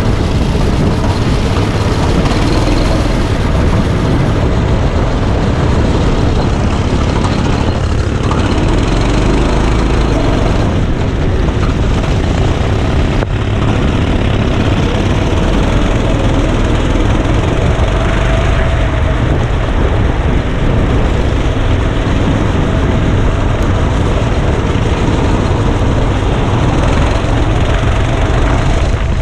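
Go-kart engine running loud and steady, recorded onboard with a mix of engine noise and rushing air.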